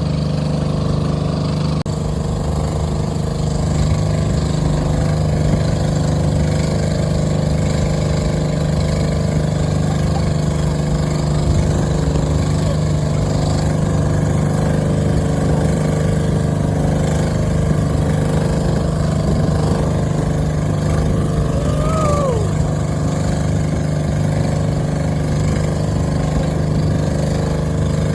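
Boat engine running steadily at a constant speed, giving an even, unchanging hum.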